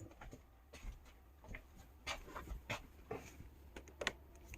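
Faint, scattered clicks and light knocks, roughly one every half second to a second, against a quiet room.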